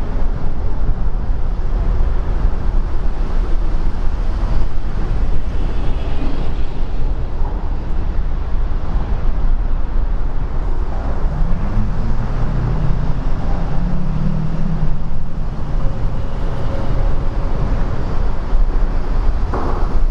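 Heavy downpour and highway traffic noise under an interstate overpass: a loud, steady wash with a low rumble. A deeper droning hum swells and fades between about eleven and fifteen seconds in.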